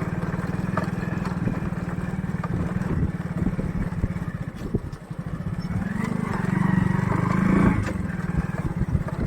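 Motorcycle engine running under way, a steady fast pulsing that grows louder and fuller about six seconds in, then eases off near eight seconds.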